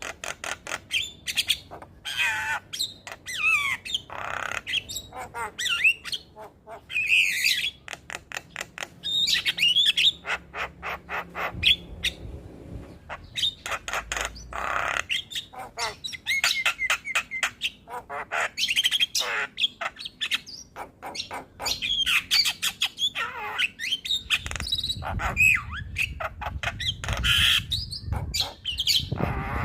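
Javan myna singing a long, varied song: quick runs of clicking notes, whistled notes that bend up and down, and harsh squawks, one straight after another.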